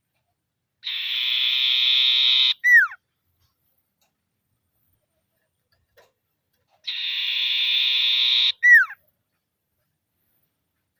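Common iora (sirtu/cipoh) calling twice, about six seconds apart. Each call is a dry, rattling trill of about a second and a half that ends in a sharp, steeply down-slurred whistle. This is the rapid 'ngetir' trill used to challenge rival ioras.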